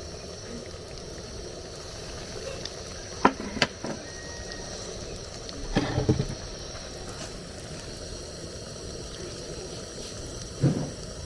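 A cooking pot on the heat with a steady sizzling, bubbling hiss, and sharp knocks of a utensil against the pot about three seconds in, again around six seconds and near the end.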